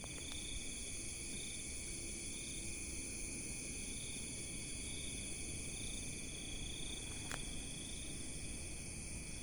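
Chorus of insects such as crickets and cicadas, a steady high-pitched shrilling with one trill swelling and fading about once a second. A sharp click about seven seconds in.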